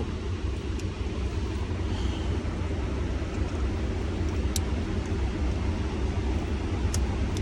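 Steady low vehicle rumble with a faint hiss, broken by a couple of light clicks about four and a half and seven seconds in.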